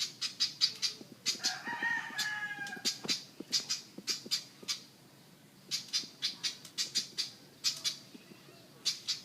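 A bird calling in rapid bursts of short, sharp, repeated notes, with one longer, harsh, wavering call about a second in and a brief pause near the middle.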